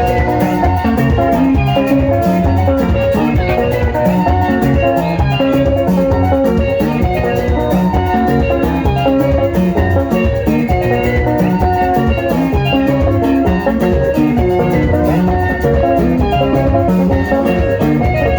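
Instrumental sungura band music: a quick run of short picked melody notes over bass and a steady drum-kit beat, with no singing.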